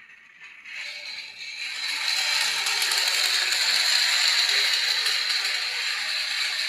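Small geared electric motor of a toy model train whirring and rattling. It starts quietly and builds over about two seconds, then runs steadily.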